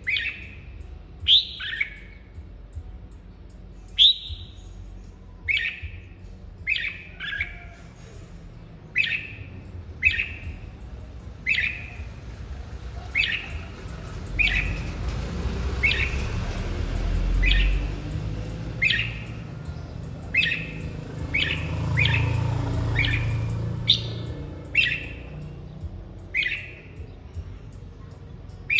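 Red-whiskered bulbul giving a steady series of short, sharp calls, roughly one every second or so. A low rumble rises in the background through the middle.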